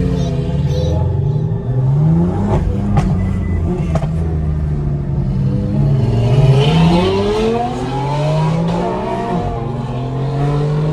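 Car engines revving, their pitch rising and falling again and again, with more than one engine overlapping, and a few sharp pops about two to four seconds in.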